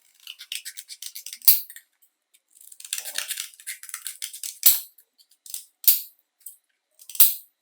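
Quick runs of light clicking and rattling, broken by four sharp clacks, the loudest sounds, about a second and a half in, near the middle, and twice near the end.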